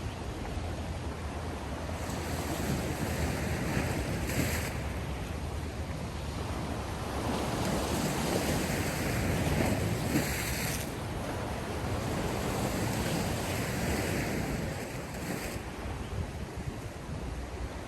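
Sea surf washing ashore in continuous waves, swelling loudest about ten seconds in, with brief hissing washes every five seconds or so; wind rumbles on the microphone.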